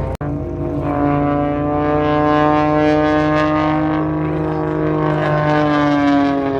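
Propeller aircraft engine droning as it flies past, its pitch falling slowly. The sound cuts out for an instant just after the start.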